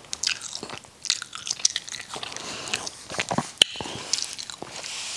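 Close-miked chewing of a mouthful of rice and braised catfish: wet mouth smacks and small clicks at an uneven pace, with one sharper click about three and a half seconds in.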